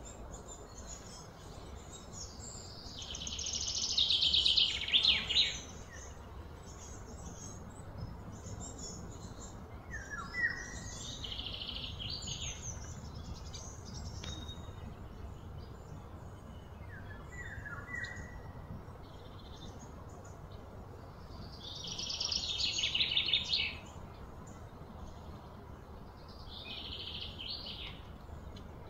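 Wild songbirds singing in a series of quick high trills, the loudest about three seconds in and another strong one near the end, over a steady low background rumble.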